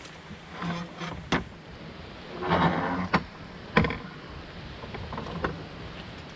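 Steel-frame Genesis IO mountain bike clattering over rough ground: several sharp knocks and clanks, with a short rough creaking rattle a little before the middle.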